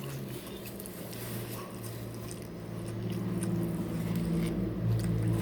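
Close-up chewing and mouth noises of someone eating, with small wet smacks, over a steady low hum that gets louder after about three seconds.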